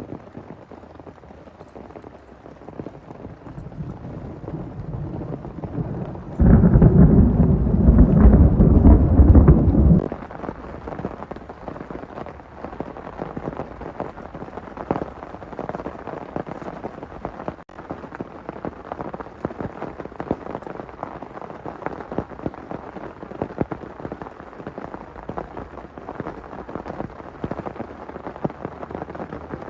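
Heavy rain falling steadily, with many separate drops ticking on a surface. A loud, deep rumble of thunder comes in about six seconds in and cuts off abruptly about four seconds later.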